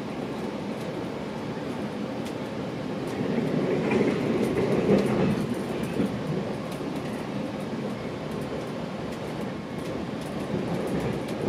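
GO Transit commuter train running between stations: a steady rumble of wheels on rail inside the coach, growing louder for a couple of seconds near the middle.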